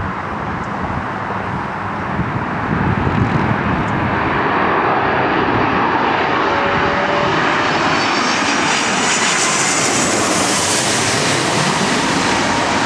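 Airliner passing close, its engine noise building over the first few seconds and then staying loud and steady. A high whine rises in the upper range about two-thirds of the way through.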